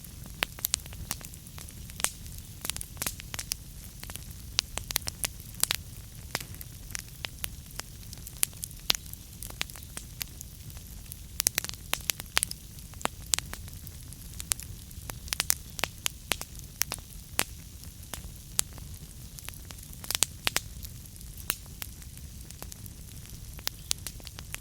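Wood fire burning in a fireplace, crackling with frequent, irregular sharp pops of burning logs over a steady low rumble of the flames.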